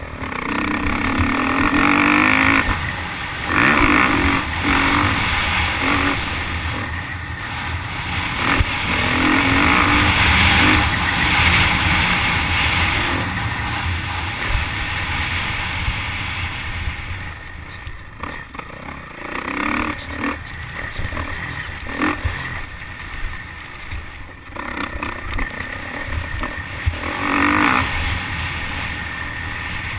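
Motocross dirt bike engine at full throttle and backing off, again and again, its pitch climbing on each burst of throttle.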